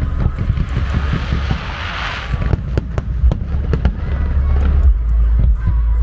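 Fireworks display: a rapid, irregular series of bangs and pops from shells and comets, over a steady low rumble. A crackling hiss fills the first two and a half seconds or so, then fades.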